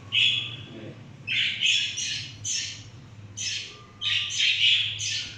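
Caged parrots squawking, a rapid series of about a dozen short, harsh calls.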